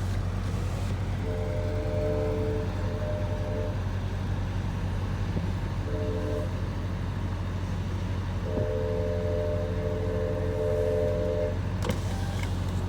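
A GO Transit train horn sounds faintly three times, a long blast, a short one and a long one, over a steady low vehicle rumble.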